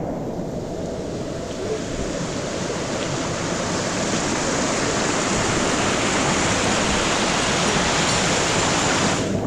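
Rushing water of a mountain-stream waterfall, a steady dense noise that grows louder and brighter over the first few seconds.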